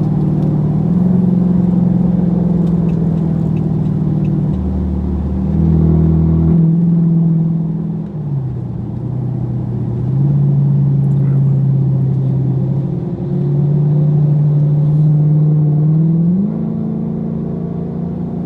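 Car engine droning at a steady pitch, which drops about eight seconds in, climbs back a few seconds later and rises again near the end.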